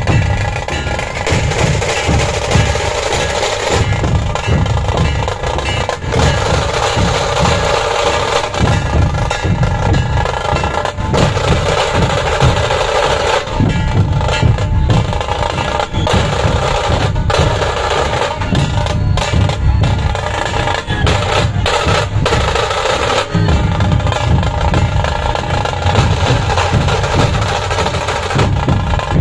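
Dhol-tasha ensemble drumming: deep dhol beats under a dense, rapid tasha roll, playing without a break.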